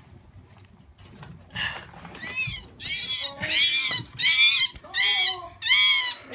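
European starling giving a rapid series of harsh, screeching distress calls while being handled, starting about a second and a half in and growing louder, roughly one and a half calls a second.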